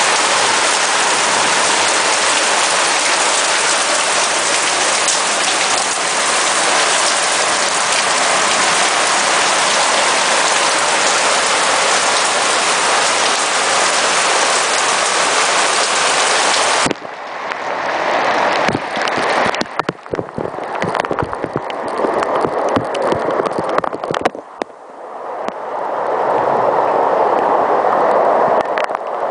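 Heavy rain pouring down, a dense steady hiss. About two-thirds of the way through it changes abruptly to a patchier, uneven rain sound with scattered clicks and knocks.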